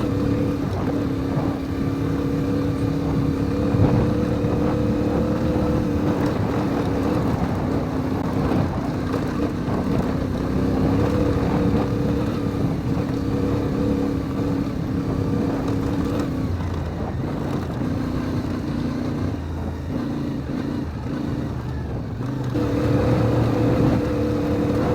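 CFMoto Ibex 450 MT's parallel-twin engine running steadily while riding a rough dirt trail, with short knocks and rattles from the ground. About two-thirds of the way through, the revs drop as the throttle eases off, then pick back up near the end.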